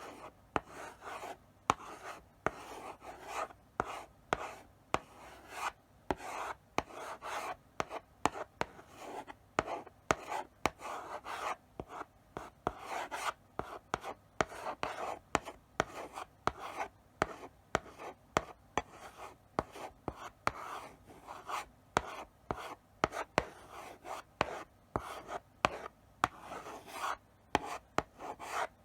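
Chalk writing slowly on a blackboard: short scraping strokes mixed with sharp taps as the chalk meets the board, in an irregular rhythm with brief pauses between strokes.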